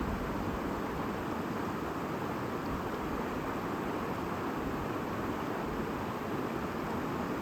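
A stream babbling, a steady rush of flowing water with no breaks.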